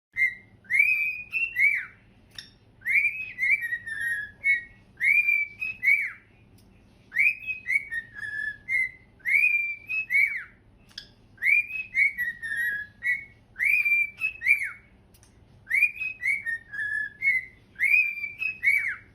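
Pet parrot whistling a short multi-note tune over and over, about nine phrases with brief pauses between them; the notes are clear and swoop up and down.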